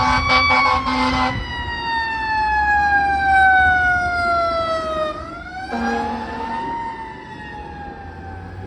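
Fire apparatus Q mechanical siren and air horn. The air horn blasts in short pulses over the siren's high wail for about the first second. Then the Q siren winds down in a long falling moan, is brought up again briefly about five seconds in with another air horn blast, and winds down once more as it fades, leaving the low rumble of the engine.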